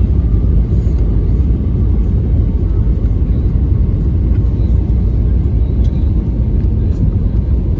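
Steady low rumble of an Airbus A320neo's engines and airframe heard from inside the passenger cabin, with no sudden changes.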